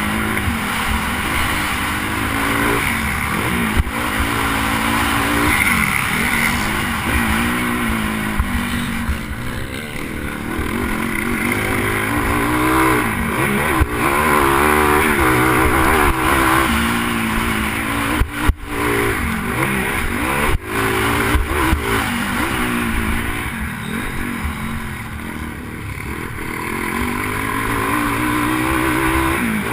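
Pit bike engine racing on a supercross track, revs climbing and dropping over and over through gear changes and throttle on and off, heard from a helmet-mounted camera. The sound cuts out sharply for an instant twice, about two thirds of the way through.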